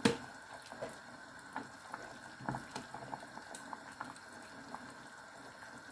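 Chicken pieces simmering in a thick ketchup sauce: faint, irregular bubbling and small pops. A single sharp click sounds right at the start.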